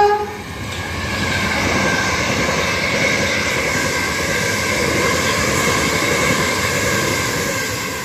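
Southern Class 377 Electrostar electric train running through the station at speed. The tail of a horn note sounds right at the start, then a steady rush of wheel and rail noise with a faint whine that eases off near the end as the train draws away.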